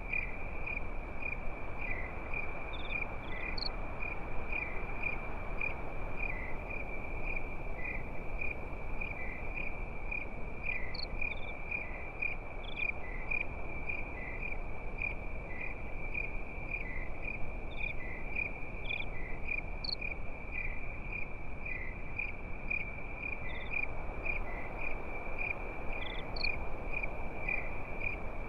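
Crickets chirping at night in a steady, even rhythm of pulses, with a few higher insect chirps scattered over it and a constant soft hiss underneath.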